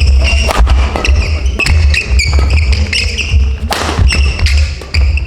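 A badminton rally in a gym hall: sharp racket-on-shuttlecock smacks and footfalls at irregular intervals, with short squeaks of court shoes on the floor, over background music with a heavy bass pulse.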